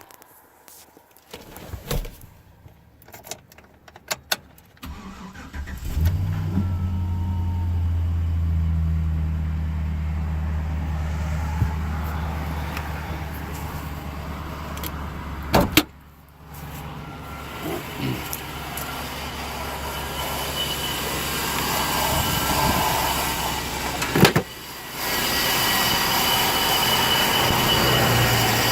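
Clicks and knocks, then a Z71 pickup truck's engine starts about six seconds in and runs steadily. Later come a sharp knock, a dip, and a louder, noisier stretch of engine sound near the end.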